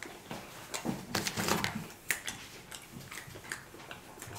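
Close-miked mouth sounds of a man chewing food, with a few sharp clicks scattered through.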